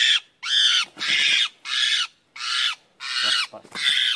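A bird giving a rapid series of harsh, scratchy squawks, about six in four seconds, evenly spaced.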